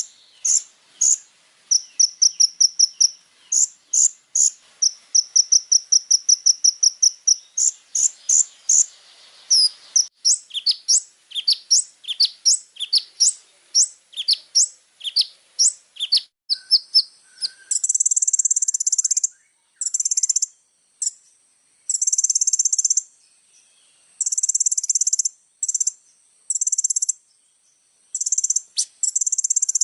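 Kolibri ninja sunbird song: fast runs of high, thin chirps, then a string of quick downward-sweeping notes, then long high buzzing trills broken by short gaps through the second half.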